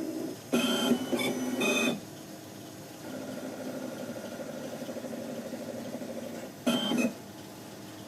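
CEREC MC XL milling unit working through its measuring cycle on the block and mandrel before milling: its motors whir in loud short bursts with a high whine, about half a second in and again near seven seconds, over a steady mechanical hum.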